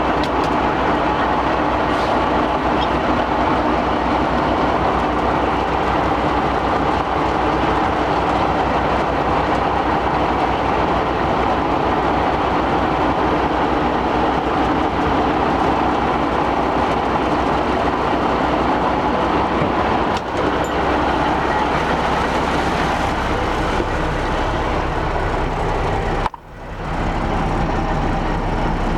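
Diesel engine of a 1979 Ford L9000 tri-axle grain truck running, a steady low, rapid pulsing; the sound drops out briefly about 26 seconds in.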